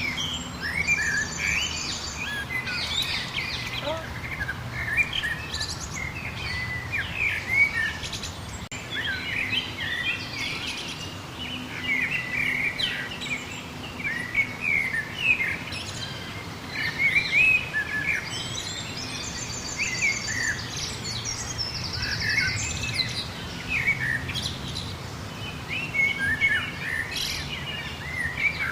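Wild birds singing and calling together, a dense run of short chirps and whistles, with a rapid high trill of repeated notes about a second in and again about two-thirds of the way through. A steady low hum sits underneath.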